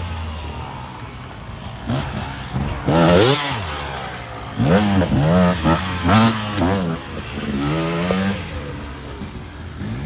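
Off-road motorcycle engines revving on a dirt track, the pitch rising and falling repeatedly as riders open and close the throttle, with louder surges about three, five and six seconds in.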